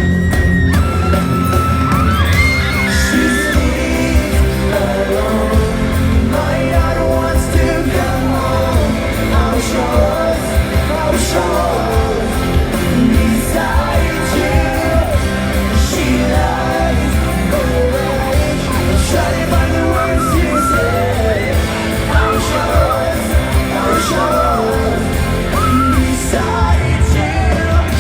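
Live pop-rock band playing, with singing over the music and yells from the crowd.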